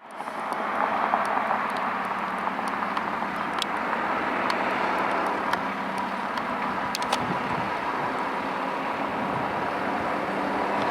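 Steady road-vehicle noise: engines and tyres running, with a faint steady hum and a few small clicks, and no siren sweep.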